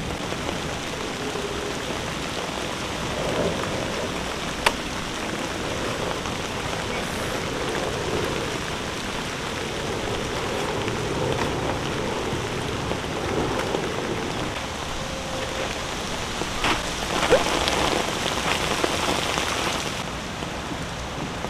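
Steady rain falling, with the rustle and crinkle of a pop-up tent's nylon being folded and handled over it. There is a sharp click about five seconds in, and more handling noise with small knocks near the end.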